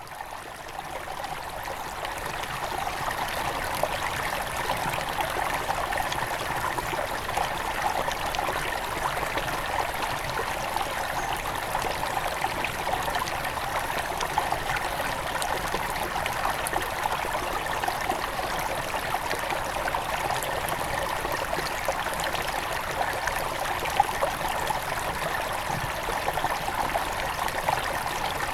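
A small mountain river flowing over stones, a steady splashing, gurgling rush that fades in over the first couple of seconds.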